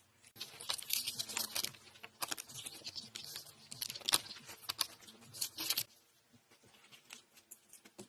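Irregular crackling and tearing noises for about five seconds, then a few faint scattered clicks.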